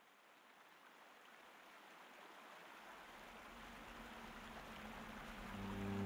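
A faint, steady rushing hiss, like running water or rain, fades in and slowly grows louder. About five and a half seconds in, low sustained music notes come in under it.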